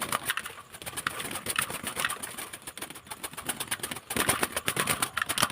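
Birds being fed: a dense run of quick clicks and flutters, with short high chirps here and there.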